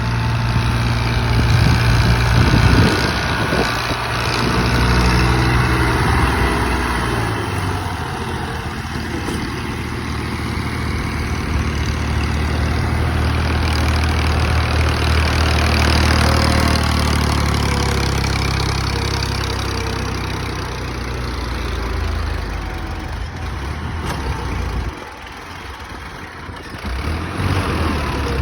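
Tractor engine running hard, its pitch and level rising and falling. It eases off suddenly about 25 seconds in.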